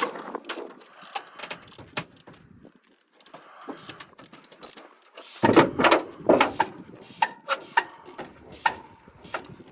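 Irregular knocks and clatters, with a louder cluster of them a little past halfway.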